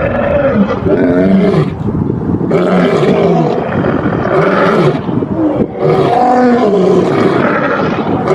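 A large animal calling loudly and repeatedly: a string of deep, roaring calls that bend up and down in pitch, with short breaks between them.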